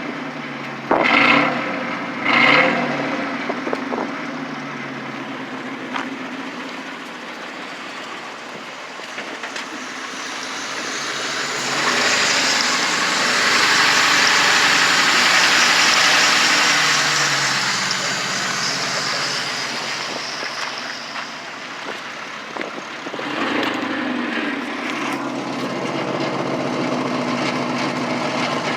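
A 4.6-litre V8 breathing through two Flowmaster 40 series mufflers and stock cats, blipped twice in quick revs and then idling. Midway a broad rushing noise swells up and fades. Near the end the engine note rises again and holds.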